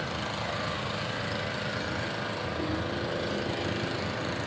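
An engine running steadily at idle, with a fast, even firing rhythm.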